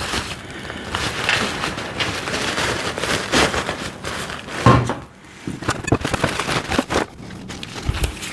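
Unpacking sounds: packing material rustling and crackling while the steel parts of a flat-packed welding table are handled, knocking and clunking irregularly. A heavier thump comes about halfway through.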